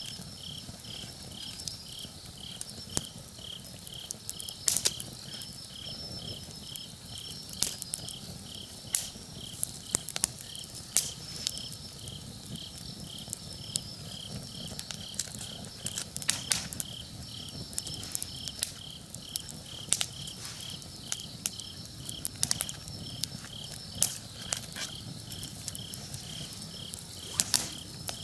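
Wood campfire crackling and popping, with sharp irregular snaps, over an insect chirping steadily about twice a second.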